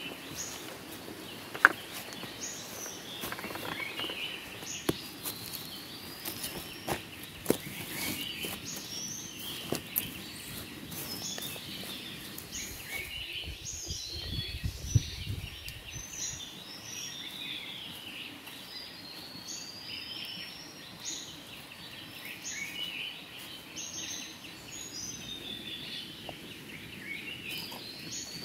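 Wild birds chirping over and over in short rising and falling notes, with a few sharp knocks in the first ten seconds.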